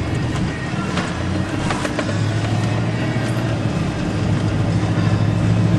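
Vehicle engine and road noise heard from inside the cab while driving, a steady drone whose low engine note rises slightly about two seconds in, with a few faint clicks.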